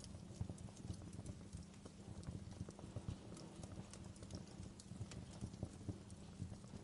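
Crackling wood fire: irregular small pops and snaps over a low, steady rumble.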